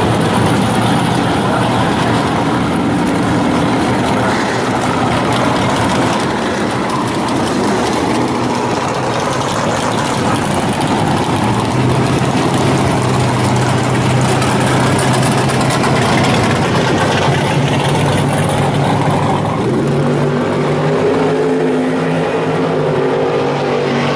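Drag-prepared muscle cars, among them a Chevy Nova SS, idling past at low speed one after another, their engines loud. A deep steady engine note stands out from about halfway through, and another car's note rises slightly near the end.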